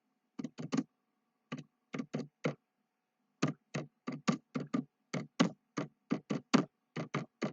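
Computer keyboard being typed on: irregular runs of sharp key clicks, sparse at first, then a short pause, then a faster, steadier run of keystrokes.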